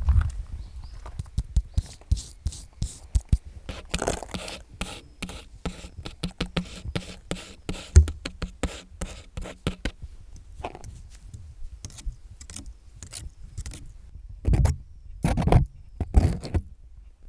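Long fingernails tapping and scratching in quick, irregular clicks, with a few heavier knocks and scrapes near the end.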